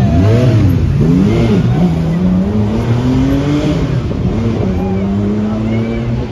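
Classic car engines passing on a street circuit. An engine is blipped twice, about half a second in and again about a second and a half in, then climbs steadily in pitch as a car accelerates, and runs level for the last couple of seconds.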